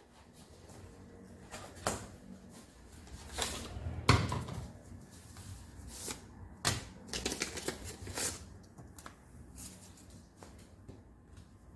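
Irregular clicks, knocks and short scrapes of tools and parts being handled on a workbench. The sharpest knock comes about four seconds in, and a quick run of clicks follows a few seconds later.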